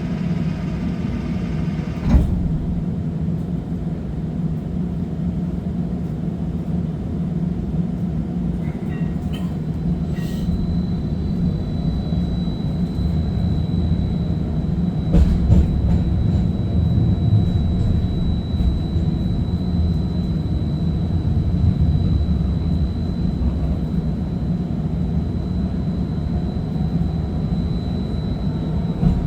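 First Hill streetcar running along its track, heard from on board: a steady low rumble with a sharp knock about two seconds in and a few bumps near the middle. A thin, steady high whine starts about ten seconds in.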